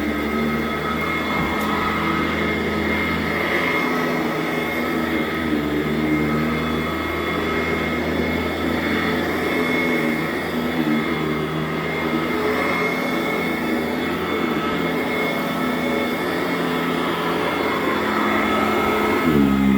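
Sanitaire SC899 commercial upright vacuum cleaner running on carpet, a steady motor whine with a lower hum that wavers slightly as it is worked; the motor pitch shifts up near the end.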